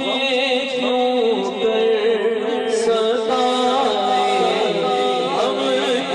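A man singing a naat, drawing out long, wavering, ornamented notes without words that the recogniser could catch.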